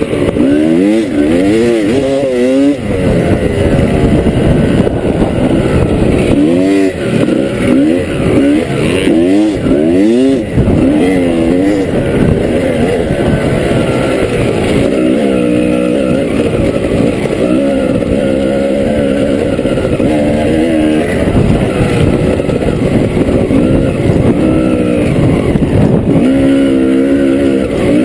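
Onboard dirt bike engine running under load while the bike is ridden, its revs rising and falling over and over as the rider accelerates, shifts and backs off over rough ground. The rev changes come thick and fast in the first ten seconds or so and are steadier after that.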